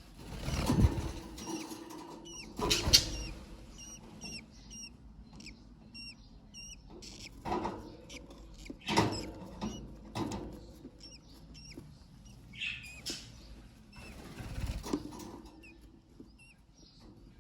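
Baby budgerigar chicks peeping, a run of thin, high chirps about twice a second, with scattered knocks and rustles that are louder than the chirps.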